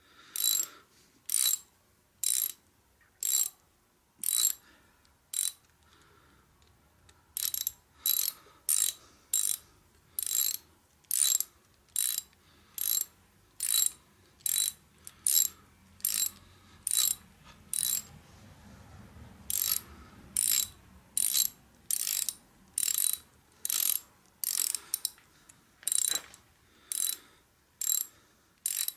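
Hand ratchet wrench clicking in short bursts on each back-swing, about one to two a second with a couple of brief pauses, as bolts on the Kubota D662 engine are run down snug without a torque wrench.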